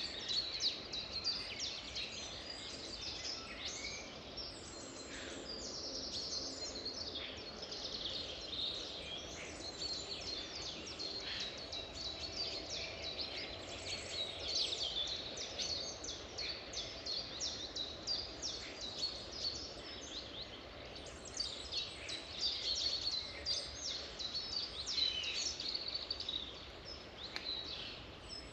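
Many songbirds singing and chirping at once: a dense, unbroken chorus of quick high notes and short trills over a steady background hiss.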